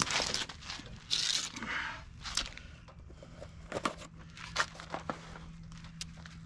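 Packaging rustling and tearing as new lug nuts are unwrapped, followed by a few sharp clicks and taps of the parts being handled.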